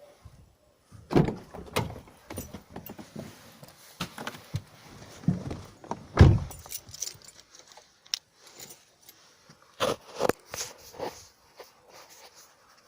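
Keys jangling amid irregular knocks and thumps, the loudest about a second in, six seconds in and ten seconds in.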